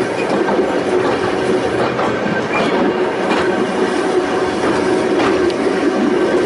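A Volk's Electric Railway narrow-gauge electric car running along the track: a steady hum with irregular clicks of the wheels over the rail joints.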